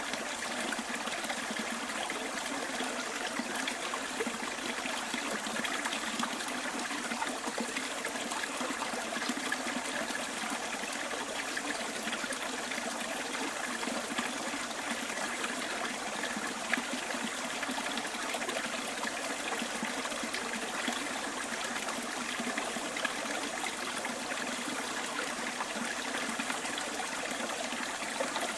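A small bush stream trickling and babbling in a steady, even flow.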